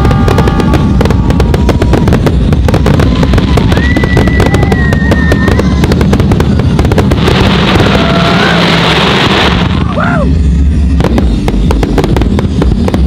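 A fireworks display going off in a dense barrage: rapid bangs and crackling from bursting aerial shells and ground fountains over a steady low rumble, with a couple of whistling tones, one about four seconds in and another near ten seconds. Music runs underneath.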